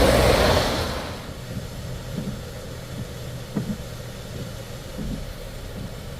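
A loud rushing noise that dies away about a second in, then a vehicle engine idling with a low steady hum.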